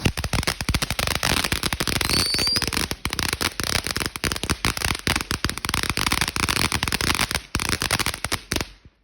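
Firework going off in a fast, uneven string of sharp crackling pops that cuts off suddenly near the end.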